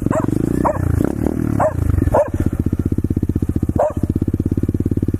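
A dog barking several times, short separate barks, over a motorcycle engine running with a steady rapid pulse close by.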